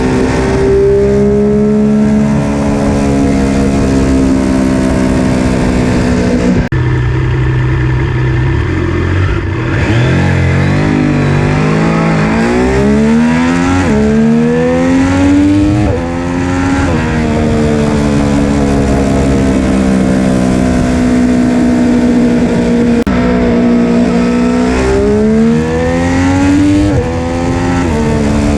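Triumph Street Triple RS 765 three-cylinder engine, through its stock muffler with the secondary catalytic converter removed, as the bike is ridden. The engine note holds steady at times, climbs in pitch under throttle, and drops suddenly several times, as at throttle lifts or gear changes.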